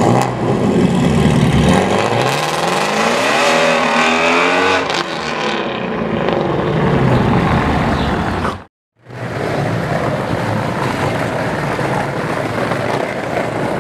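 Ford Shelby GT350's 5.2-litre flat-plane-crank V8, its catalytic converters melted out, running loudly as it pulls away, the revs climbing for a couple of seconds and then falling as it draws off. A brief silent dropout about nine seconds in, then a steadier car engine and street traffic sound.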